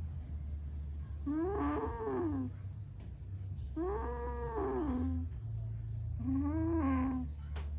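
Domestic cats yowling in a fight over a caught lizard: three drawn-out yowls, each about a second long and rising then falling in pitch. A steady low hum runs underneath.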